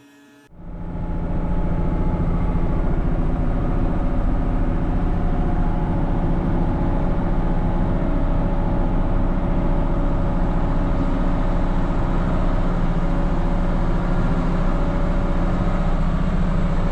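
Case 2670 tractor's diesel engine running steadily at an even pitch. It cuts in abruptly about half a second in.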